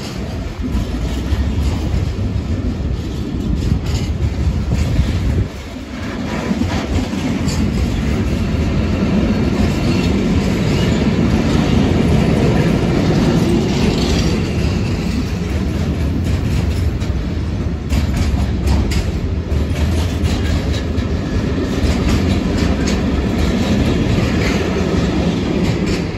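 Container freight train's flat wagons, mostly running empty, rolling past at speed: a loud, steady rumble of steel wheels on rail with clickety-clack, a run of sharp clicks about three-quarters of the way through, dropping off right at the end as the last wagon clears.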